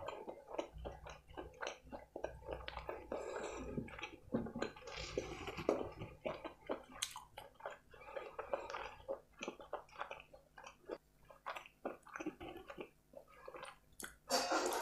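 Close-miked chewing of butter chicken and rice: wet mouth sounds and a dense, irregular run of small clicks, with a louder burst near the end.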